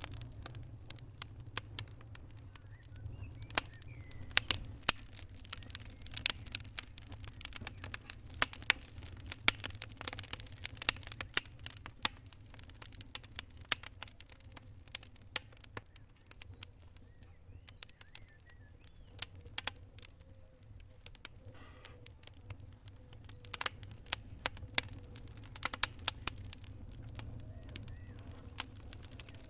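A fire crackling: irregular sharp pops and snaps, some much louder than others, over a steady low rumble.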